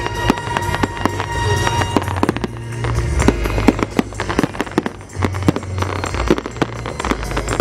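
Fireworks going off in rapid succession: a dense run of sharp bangs and crackles over low booms. Music plays along with them, clearest in the first two seconds.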